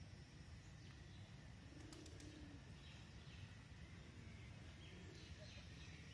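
Faint bird calls over a steady low outdoor rumble: a low cooing note twice, about 2 s and 5 s in, and a few faint high chirps.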